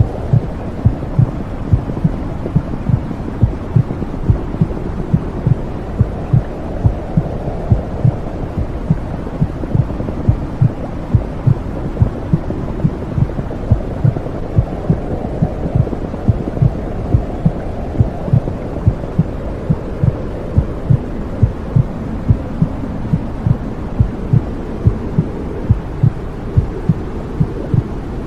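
Womb sound: a steady, muffled low whooshing with a heartbeat thumping evenly through it.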